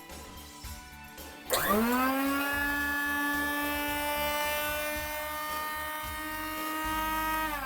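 Cuisinart burr coffee grinder's electric motor starting about a second and a half in, its whine rising quickly to a steady pitch, running for about six seconds, then falling in pitch as it stops near the end.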